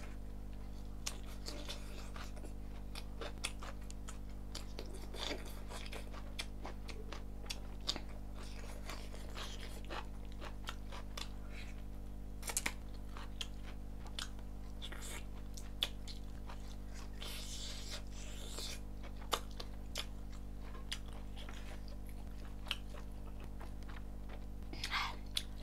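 Close-up chewing and mouth clicks as chicken and rice are eaten by hand: many short, sharp, irregular clicks over a steady low hum.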